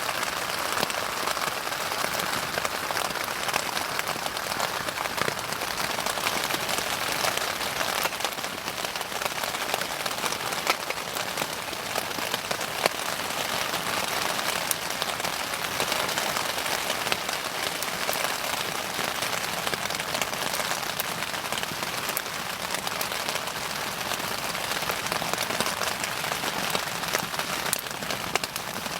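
Wood bonfire burning, crackling steadily with many small pops and a louder snap about halfway through.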